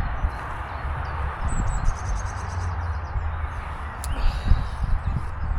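Steady hum of distant motorway traffic, with wind gusting on the microphone and a small bird chirping in a quick run of high notes about a second and a half in.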